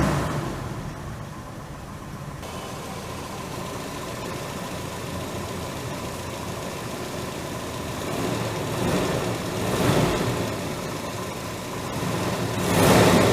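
Toyota Corolla KE72's inline-four engine idling steadily, with short blips of the throttle about nine and ten seconds in and a louder rev near the end.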